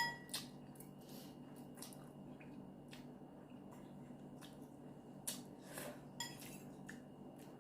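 Faint eating sounds of instant noodles: a utensil clinks against the bowl with a short ring right at the start, followed by scattered soft clicks and taps of utensil and mouth, a few slightly louder ones a little past halfway.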